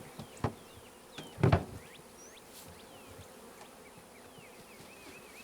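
Honeybees buzzing around a freshly installed hive, with two knocks of the hive's top being set on, the louder about a second and a half in.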